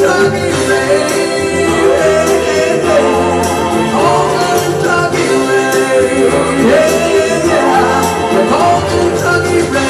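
Live band music with singing: a full band playing a pop-country ballad's closing section with voices singing over it.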